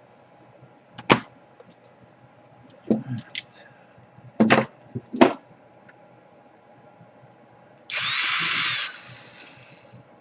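A few sharp clicks and knocks of small parts being handled, then a small electric screwdriver whirring for about a second near the end, driving a screw into the laptop case.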